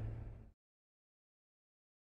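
A low car rumble from the dash cam's microphone fades for about half a second, then the sound cuts off to dead silence.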